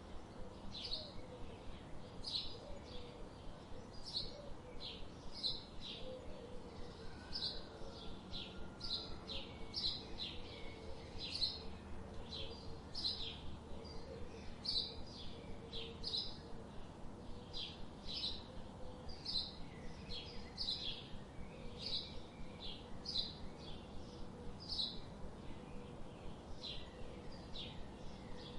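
Tropical forest bird calling a short, high, falling note over and over, a little faster than once a second.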